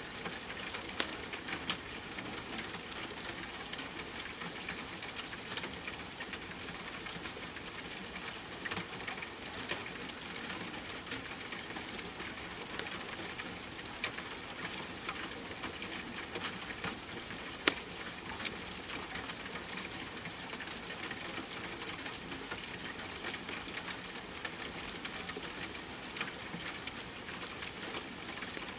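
Steady rain hiss with scattered sharp crackles and pops of a wood fire burning in a fireplace, one pop louder than the rest about two-thirds through.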